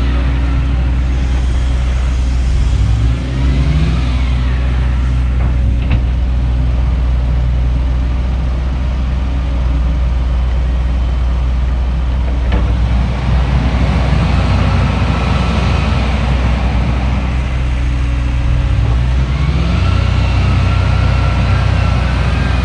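Diesel engine of heavy earthmoving equipment (loader or excavator) running close by, revving up briefly twice. In the second half a higher whine rises and falls twice over it.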